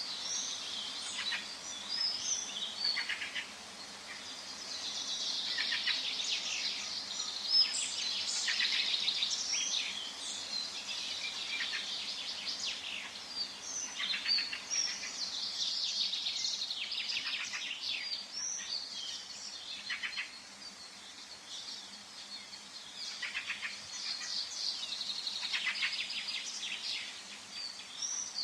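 Forest ambience: several songbirds chirping and trilling at once, with overlapping high calls and brief lulls, over a faint steady low hum.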